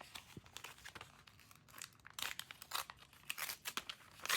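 Packaging around a photo card being handled and pulled open, with irregular crinkling and crackling that gets busier and louder in the second half.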